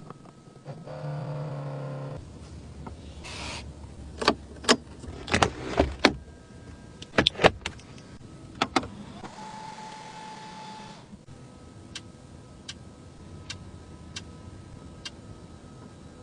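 Electric mechanisms in a Mercedes car's cabin. A short motor hum comes first, then a run of sharp clicks and clunks. A steady tone follows for about two seconds, and then light, even ticking at a little more than one tick a second.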